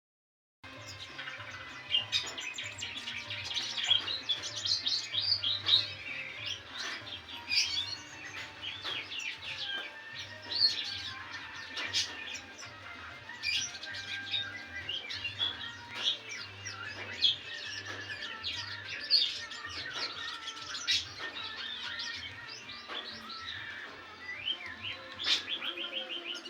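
Red siskin singing: a continuous, rapid twittering song of chirps, trills and sharp high notes, starting about a second in.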